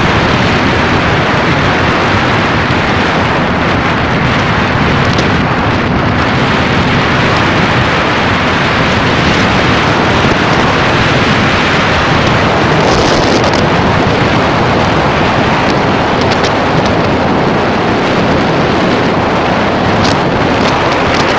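Loud, steady wind rush buffeting the microphone while riding on a Jawa motorcycle at speed, the engine buried under the wind.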